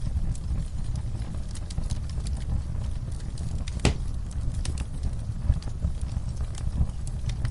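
Wood fire crackling in a fireplace: scattered sharp pops and snaps over a low steady rumble of the flames, with one louder crack about four seconds in.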